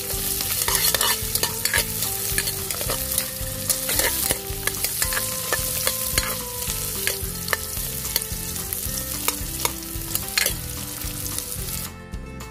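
Sliced ginger and red onions sautéing in a metal pot: a steady sizzle, with a metal ladle scraping and clicking against the pot as they are stirred. The sizzle drops away sharply near the end.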